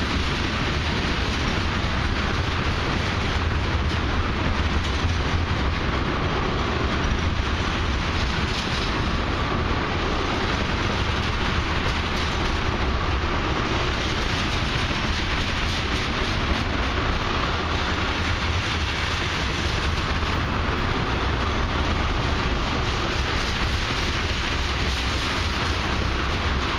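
Ethanol tank cars of a long freight train rolling slowly past: a steady noise of steel wheels running on the rails, with some clickety-clack.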